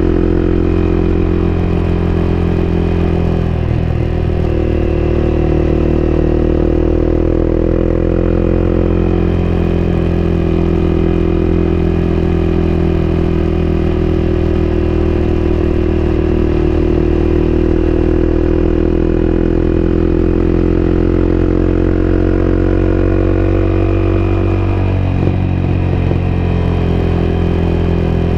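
Onboard sound of a Honda CBR250R's single-cylinder engine running at fairly steady revs under way, its pitch drifting slowly. The pitch briefly changes about four seconds in and again near the end.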